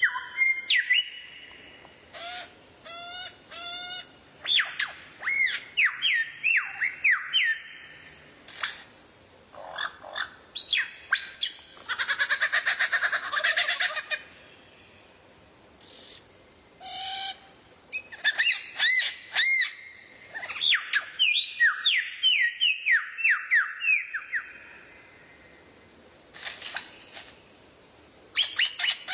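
A songbird singing a varied song: phrases of quick rising and falling whistled notes and short repeated chips, with a dense rasping rattle about halfway through and brief pauses between phrases.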